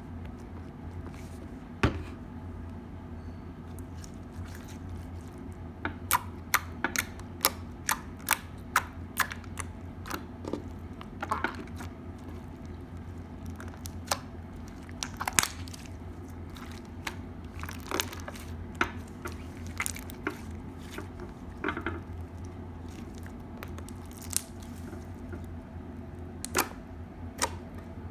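Crunchy slime being squeezed and worked by hand, giving irregular sharp crunching pops and crackles, some in quick runs, over a low steady hum.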